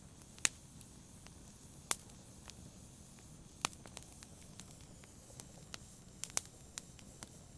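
Wood fire crackling, with irregular sharp pops over a low steady hiss; the loudest pops come about half a second in, about two seconds in and in the middle.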